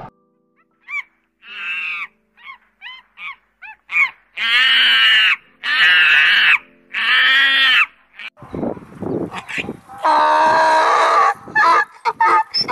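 A series of animal calls: a few short chirps, then three loud pitched calls of about a second each, a longer call, and quick repeated calls near the end.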